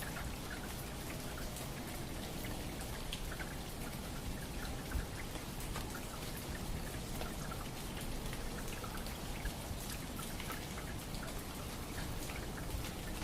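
Steady patter of falling water drops, like rain on a surface, with many small irregular ticks over an even hiss.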